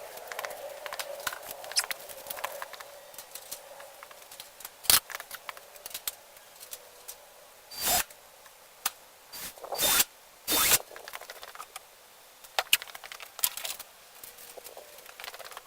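Hand work with tools and hardware: scattered light clicks and scrapes, with a few louder knocks about five, eight and ten seconds in.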